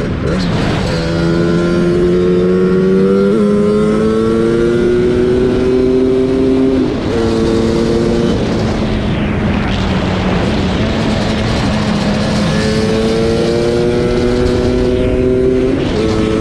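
Targa Twin 275cc twin-cylinder two-stroke scooter engine with expansion-chamber exhausts, accelerating hard under throttle. Its pitch climbs through each gear and drops sharply at gear changes about seven seconds in and near the end. Wind rushes over the bike-mounted camera.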